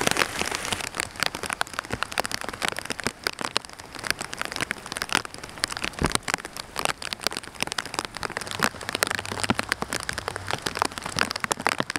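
Heavy rain falling, a dense, irregular run of drops hitting close by over a steady wash of noise.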